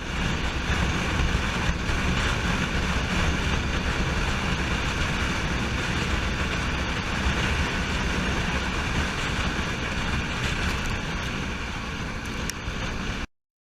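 Steady road and wind noise from a moving vehicle, a dense low rumble with hiss on top, cutting off suddenly near the end.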